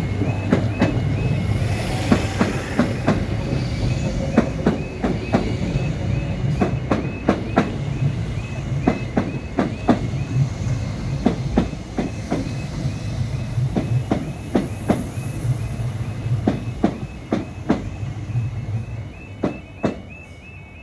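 A Greater Anglia Class 321 electric multiple unit passes over a level crossing with a steady low hum, its wheels clicking in pairs over the rail joints until the clicks die away near the end. Throughout, the crossing's alarm sounds a fast repeating high tone.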